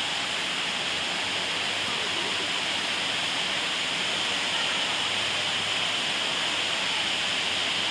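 Steady rush of falling water from a forest waterfall or cascade.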